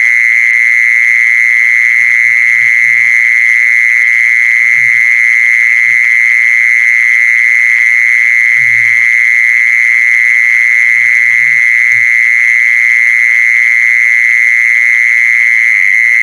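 A continuous high-pitched trill that holds one pitch without a break, played as a call to lure in a female animal. Brief low croaking calls come every few seconds beneath it.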